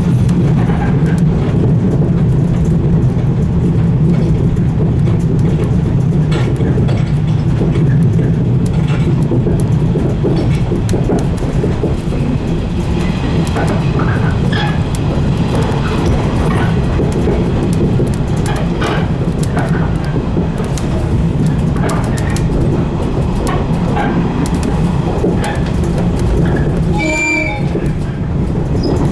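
115 series electric train running at speed, with a steady low rumble and scattered clicks from the wheels over rail joints. A brief pitched sound stands out near the end.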